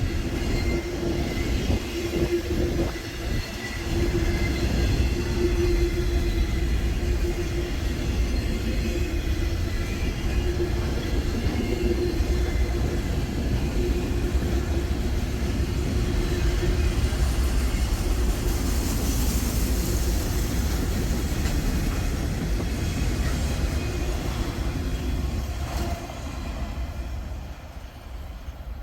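Freight train of loaded tank cars rolling past: a steady rumble of wheels on rail with a thin, steady squeal. The sound falls away about 26 seconds in as the last cars go by.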